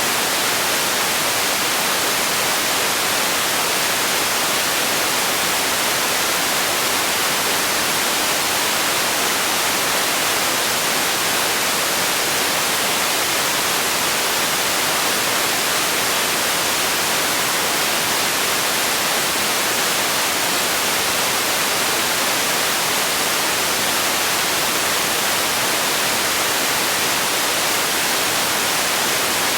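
Steady, unchanging hiss of synthetic noise, bright and treble-heavy like white noise, played continuously as a sleep and relaxation sound.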